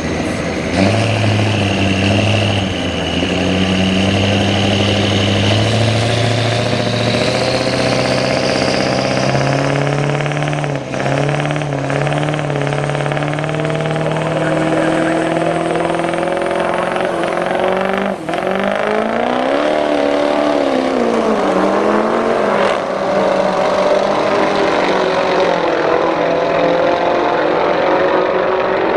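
Drag race between a Ford Super Duty pickup and a car: engines running and revving at the start line with a high whine climbing in pitch over the first several seconds, then, about two-thirds of the way in, a hard launch with the engine pitch rising and dropping several times as they shift gears down the strip.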